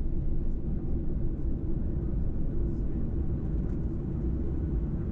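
Steady low rumble of a Boeing 737's jet engines and airframe heard inside the passenger cabin.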